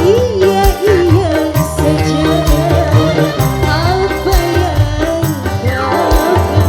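Live dangdut band playing an instrumental passage: a bending lead melody over keyboard, bass and a steady hand-drum beat.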